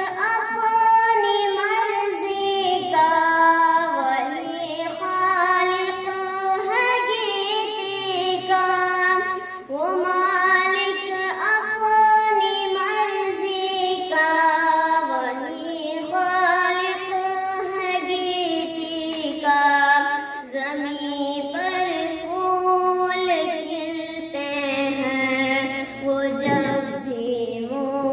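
A child's high voice singing an Urdu hamd, a devotional song in praise of God, in long, ornamented phrases with short breaks between them.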